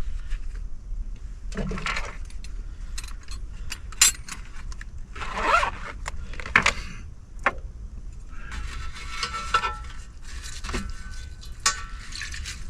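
Clinks, knocks and scraping of cookware and containers being handled and set down during cleanup, with a few seconds of rustling about two thirds of the way in, over a steady low rumble.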